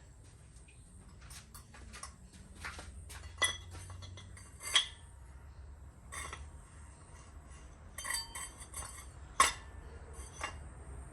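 Metal engine parts being handled, clinking and knocking against each other: about a dozen separate light knocks, some with a short metallic ring, the loudest about nine seconds in, over a faint low steady hum.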